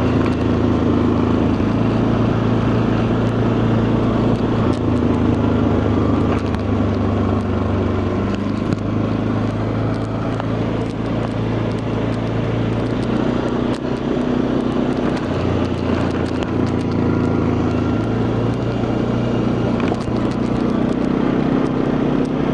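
Quad bike engine running steadily while being ridden along a road, its pitch stepping up or down a few times as the speed changes.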